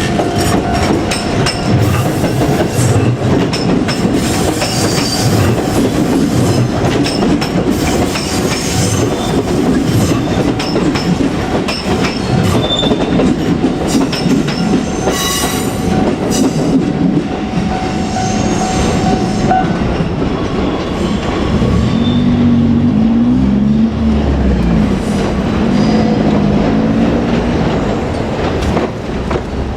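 A JR Kyushu 787-series electric train passing close by, its wheels clattering over the rail joints. A high, steady wheel squeal runs through the first two-thirds and stops about 20 seconds in.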